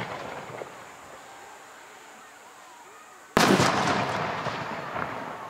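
Aerial fireworks: the tail of an earlier bang fades out at the start, then a firework shell bursts with a loud, sudden bang a little over three seconds in, its echoing tail fading over about two seconds.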